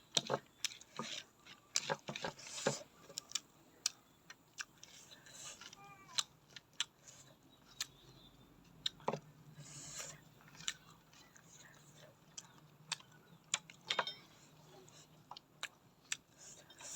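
Raw vegetables being bitten and chewed close to the microphone: irregular crisp crunches, several a second.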